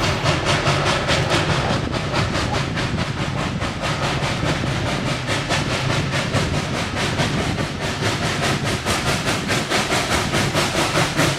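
Southern Railway 2-8-2 Mikado steam locomotive No. 4501 running with its train, with a rapid, even beat of about four to five a second.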